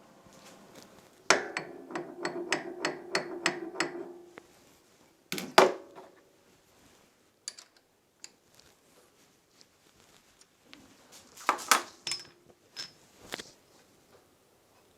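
Metal tools and parts clanking on a lathe. A sharp clank about a second in sets off a short ringing tone and a quick run of clicks. A single loud knock follows a few seconds later, and there are more clanks near the end.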